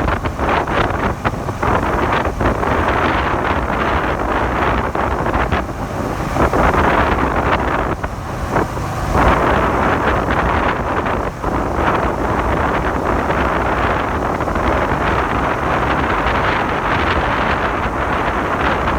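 Wind buffeting the microphone over a Suzuki SV400's V-twin engine running under way on the road.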